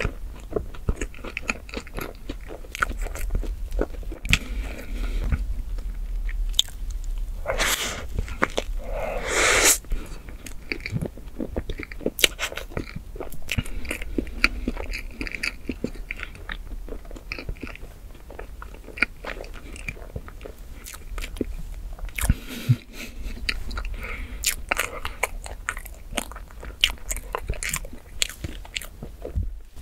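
Close-miked wet chewing and mouth smacks from eating soft chocolate whipped-cream cake, with many small clicks throughout. A louder, longer noisy stretch comes about eight to ten seconds in.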